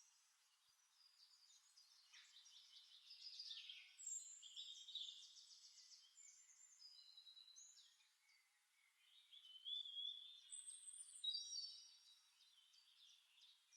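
Faint birdsong: several birds chirping and trilling in two spells, about three to six seconds in and again about ten to twelve seconds in.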